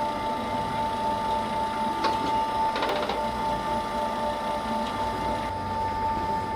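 A machine running with a steady, mid-pitched hum, with short clatters about two and three seconds in.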